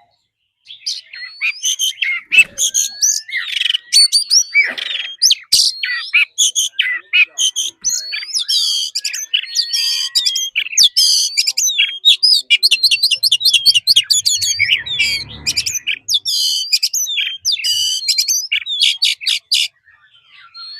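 Oriental magpie-robin singing a long, varied song of loud whistles, rapid chirps and trills, starting about a second in and stopping shortly before the end. This is the full 'wild-voice' song used to stimulate caged magpie-robins into singing.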